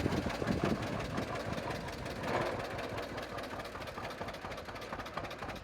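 John Deere 50's two-cylinder engine idling steadily with the PTO running, slowly growing quieter.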